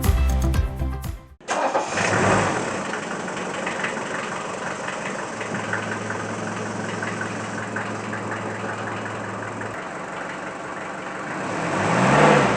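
Mercedes-Benz four-cylinder diesel engine starting about a second and a half in and settling into a steady idle, then briefly revved up and back down near the end. Music plays for the first second or so.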